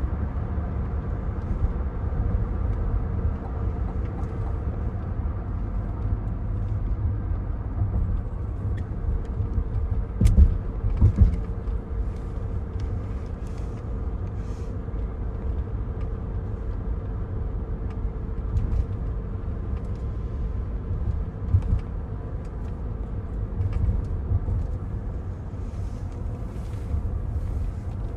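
Cabin noise inside a 2024 Cadillac Escalade ESV on the move: a steady low rumble of road and drivetrain, with a couple of thumps about ten seconds in.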